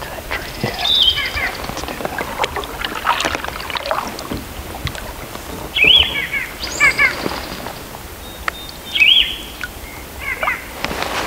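A songbird repeating a short song, an arched note followed by a quick run of falling notes, every few seconds, over the wash and knocks of a canoe being paddled.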